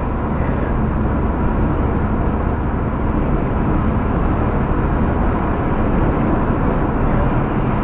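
Steady road and engine noise inside a moving car's cabin, an even low rumble with no change through the stretch.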